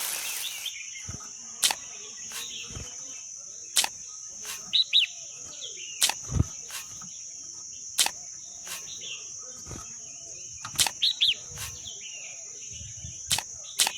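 Steady high-pitched insect drone, with a bird chirping twice and about a dozen sharp clicks scattered irregularly through it.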